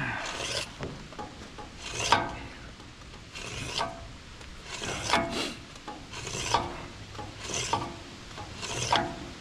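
Steel woodchipper knife being sharpened by hand: about seven slow rasping strokes, roughly one every second and a quarter.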